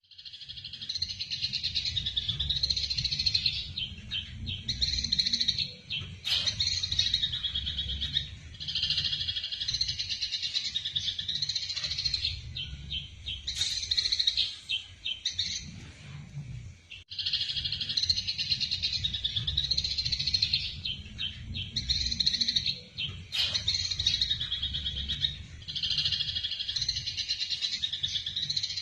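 Eurasian tree sparrows chattering in fast, agitated runs of chirps, the harsh excited calls of sparrows fighting. The runs break off briefly several times, over a steady low rumble.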